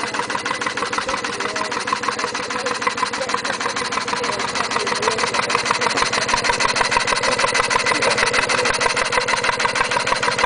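3-inch scale Marshall traction engine running in steam, with a rapid, even mechanical beat that gets louder about halfway through.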